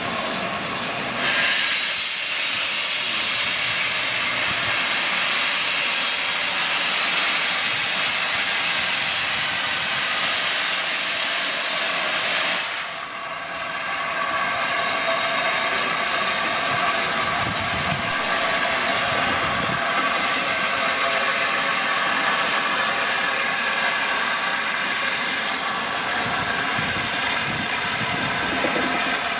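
Steam-hauled train departing behind an A1 Pacific steam locomotive: a loud, steady rush of steam and train noise starts suddenly about a second in. It dips briefly about twelve seconds in, then carries on with a steady pitched drone mixed in.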